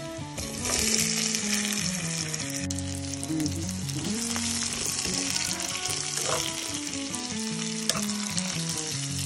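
Shrimp sizzling as they fry in oil in a pan, turned over with a fork; the sizzle swells about half a second in and stays steady. Soft background music plays underneath.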